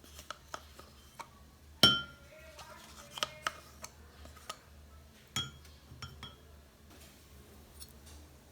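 Glassware clinking as it is handled: one sharp, ringing clink about two seconds in, a lighter ringing clink about five seconds in, and small taps and clicks between.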